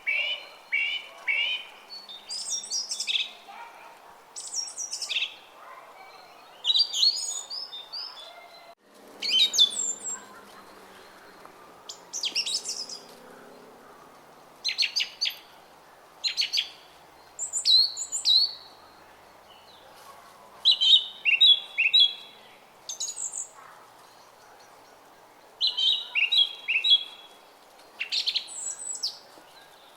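Small songbirds singing short phrases of quick repeated chirps and trills, a new phrase every second or two, over the faint, steady babble of a brook.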